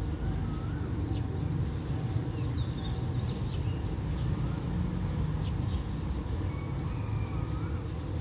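Small birds chirping and calling again and again over a steady low rumble of outdoor background noise.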